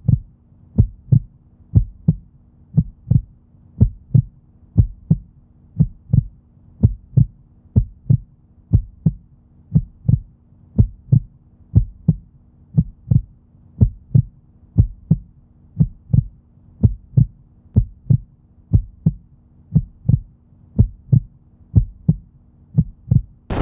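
Heartbeat sound effect: a steady rhythm of low double thumps, roughly one pair a second, over a faint steady hum.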